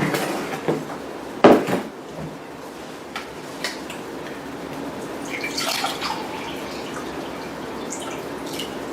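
A knock about a second and a half in, then water pouring steadily into a glass quart jar.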